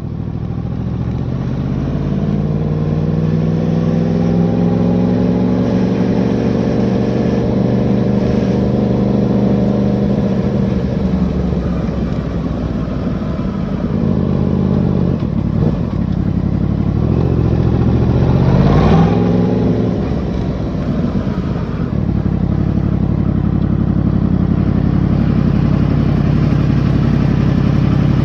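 Yamaha MT-10's crossplane inline-four engine running through its exhaust. The revs climb slowly and ease back over the first ten seconds or so. A quick throttle blip comes about 19 s in, then the engine settles into steady running.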